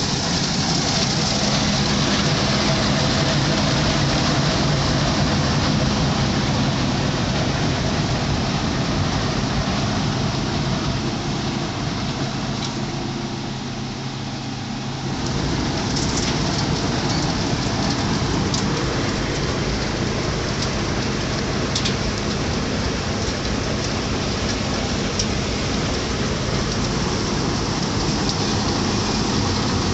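A road cold-milling machine at work: its diesel engine's steady hum under a continuous grinding hiss as the cutting drum scrapes up the dense bituminous macadam layer. The grinding eases briefly about twelve seconds in and comes back a few seconds later.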